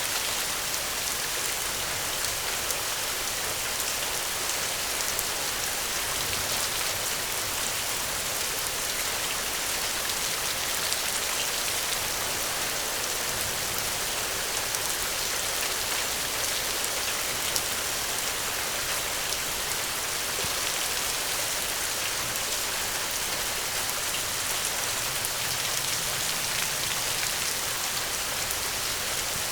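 Steady rain falling on a surface, an even hiss of many drops that neither builds nor fades.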